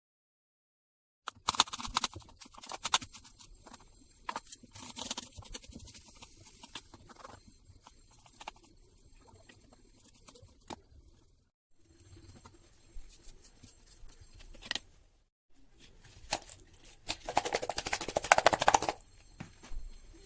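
Kitchen prep sounds: a run of sharp clicks, knocks and scrapes of utensils and ingredients being handled, broken by a couple of short silences, with the densest clatter near the end.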